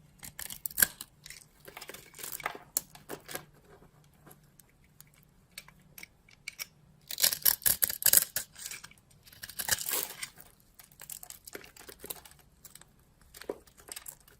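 Dry soap being cut and crunched, a run of crisp crackling and scraping sounds in irregular bursts. The densest, loudest bursts come about seven to eight seconds in and again around ten seconds.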